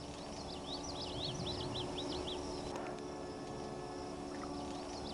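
A songbird singing: a fast run of sharp, high chirps lasting about two seconds, over a steady low background of outdoor noise.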